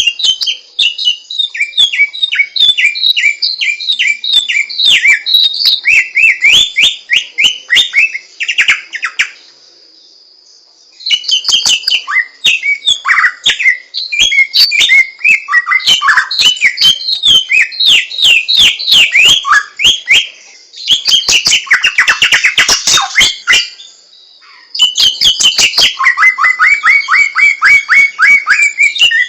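Samyong songbird singing loud, fast runs of short rising and falling chirps and trills, broken by two brief pauses, with a steady high thin whine behind it.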